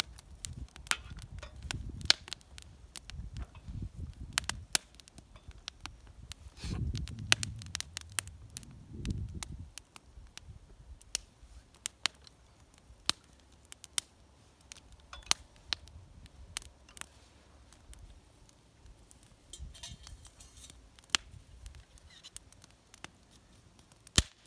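Wood fire crackling in a homemade fire pit, with irregular sharp pops and snaps, and a low rumbling through the first ten seconds or so.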